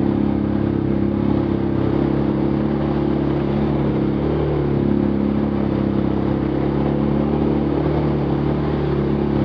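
Vehicle engine running at a steady speed, its pitch holding level with little change.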